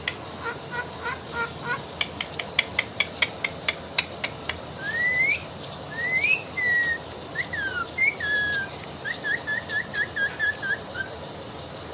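Pet parakeet whistling: a fast run of sharp clicks, then several rising and falling whistled glides, ending in a quick string of short whistled notes.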